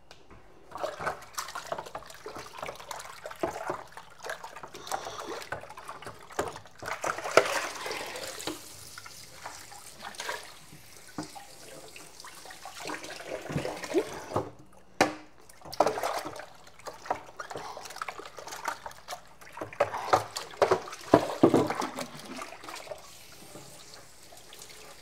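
Plastic refrigerator bins being hand-washed in a kitchen sink: water running and splashing, with irregular knocks and clatters as the bins are handled, briefly pausing about halfway through.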